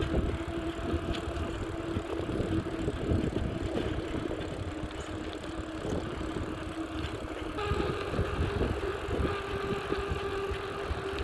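Bicycle riding noise on a paved path: tyre rumble, the frame rattling over bumps, and wind on the microphone, with a steady hum that steps up in pitch a bit after halfway.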